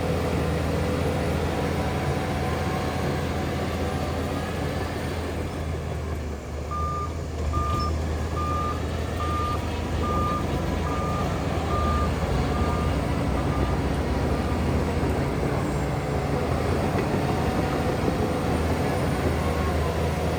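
Heavy diesel earthmoving machinery (dump trucks and a bulldozer) running with a steady low drone. About a third of the way in, a reversing alarm gives about eleven short, evenly spaced beeps, fading out near the end.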